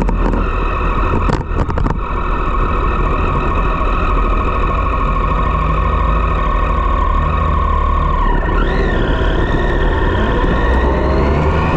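Triumph Street Triple's three-cylinder engine running through a Dominator GP aftermarket exhaust, holding a steady note with a few sharp clicks about a second and a half in. Near the end the pitch dips briefly, then climbs as the engine revs up.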